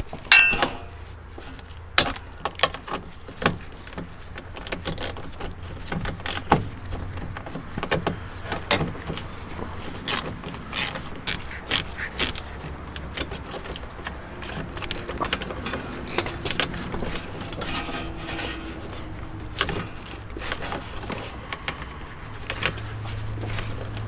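Tools and metal parts clinking and knocking irregularly during hands-on work under a car, starting with one bright metallic clink, over a steady low hum.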